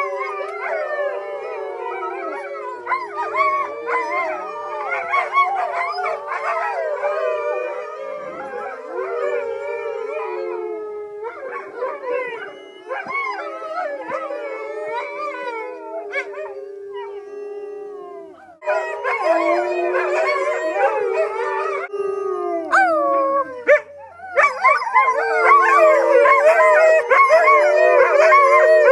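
A pack of wolves with some dog ancestry howls together in chorus, many voices overlapping and sliding up and down in pitch. The chorus dips briefly a few times, then swells to its fullest and loudest over the last few seconds.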